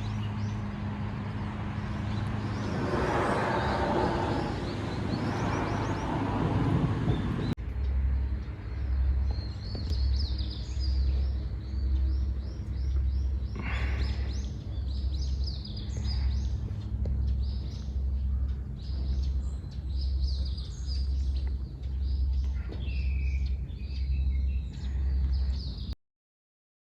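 Small birds chirping, with a regular low pulse about once a second beneath them. For the first seven seconds a steady rushing noise covers everything, then it cuts off abruptly; the sound drops out completely near the end.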